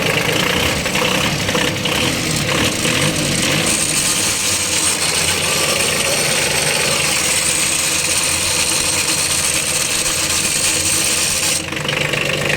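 Kubota B1500 compact tractor's diesel engine running at raised revs, with the drivetrain under test for a transmission noise after a new pilot bushing and seal. A high hiss joins about four seconds in and cuts off suddenly near the end.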